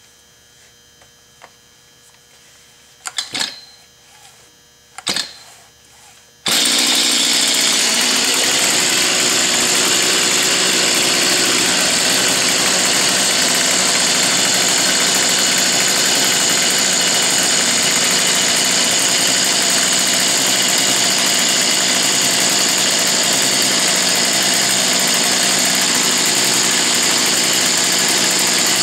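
Stihl MS 210 C two-stroke chainsaw with the Easy2Start spring-assisted starter: two short starter pulls a couple of seconds apart, then about six seconds in the engine is running and keeps running steadily and loudly.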